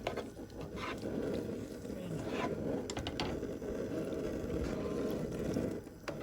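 A spatula scraping and knocking against a pan a few times while chicken, broccoli and carrots are stir-fried, over a steady low rushing noise.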